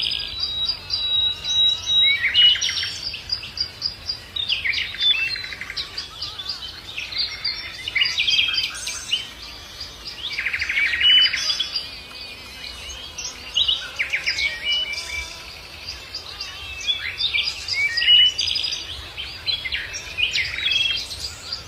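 Songbirds singing: short phrases of chirps and quick trills that recur every few seconds and overlap.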